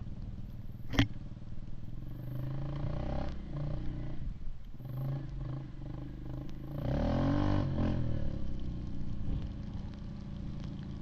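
Yamaha Grizzly 700 ATV's single-cylinder engine running under way, with a sharp knock about a second in. Around seven seconds in it revs up louder for about a second, the pitch rising and falling.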